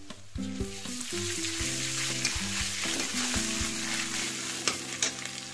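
Sliced onions with ginger and garlic paste sizzling steadily in hot oil in a kadai. A metal spatula scrapes and taps the pan now and then as the masala is stirred.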